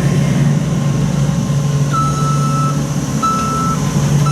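A vehicle's reversing alarm beeping over its steady engine running. The beeps begin about halfway through, two long single-pitched beeps roughly a second apart.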